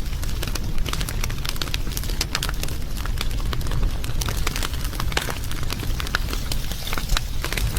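Wood fire burning, with a steady low rumble and frequent sharp crackles and pops scattered throughout.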